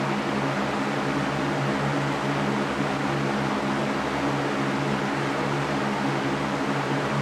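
Electric fan running steadily: a low, even hum under a constant rushing of air.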